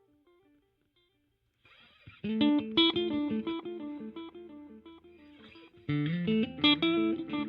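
Electric guitar played through a Donner Yellow Fall II delay and reverb pedal, its tone control turned to change the sound of the echo repeats. The repeats of the previous phrase fade away to near silence, then a picked phrase starts about two seconds in and a louder one near the end, each trailed by delay repeats.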